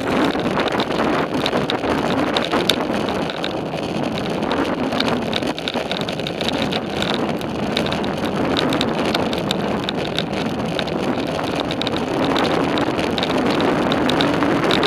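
Wind rushing over the microphone of a moving bicycle, with tyre noise and many light clicks and rattles from the bike.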